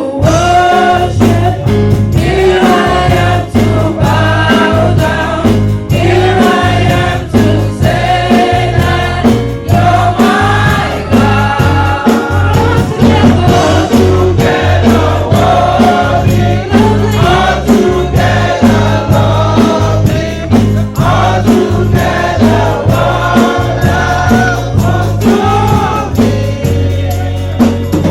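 Gospel choir singing with a band behind it: a strong bass line and a steady drum beat.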